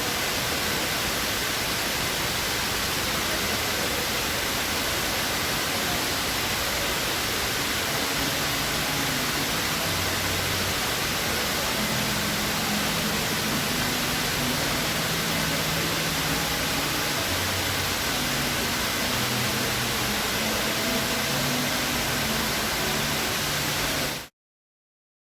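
Steady rush of water falling down the Dubai Mall's indoor waterfall, an even hiss that cuts off abruptly near the end.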